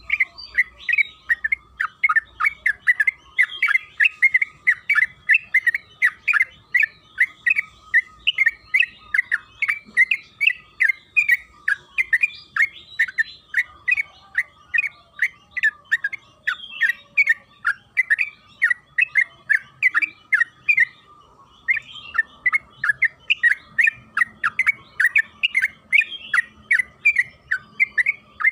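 Yellow-vented bulbul (trucukan) singing a long, fast, chattering run of short bubbling notes, about four a second, with one brief pause about three-quarters through. A faint steady high tone runs beneath it.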